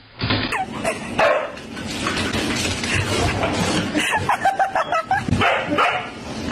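A dog barking and yipping in many short, quick calls.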